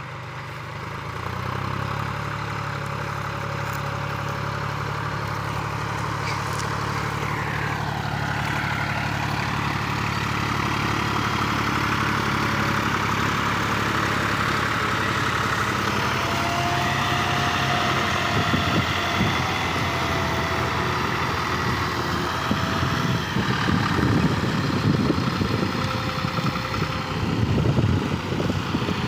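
John Deere 3510 tractor engine running steadily, coming up in level over the first couple of seconds; over the last third the sound turns rougher and more uneven.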